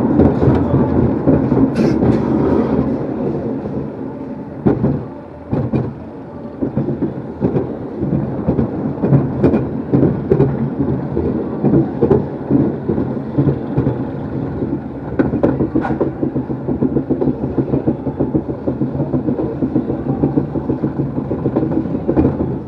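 Caterpillar fairground ride running: its cars rumble and clatter around the undulating circular track, with a steady low hum from the drive and regular rattling knocks.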